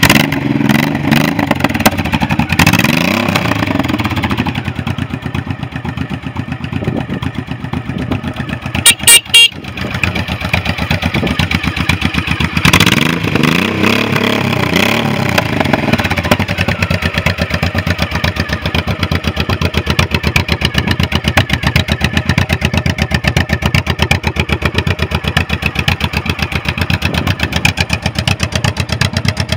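2006 Honda Shadow Spirit 1100's V-twin engine running just after starting, revved up and back down twice and then settling into a steady, even idle. A few loud sharp knocks about nine seconds in.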